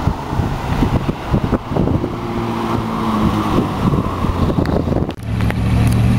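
Supercar exhaust and engine noise: a car running unevenly with its pitch shifting, then a sudden change about five seconds in to a steady low engine note.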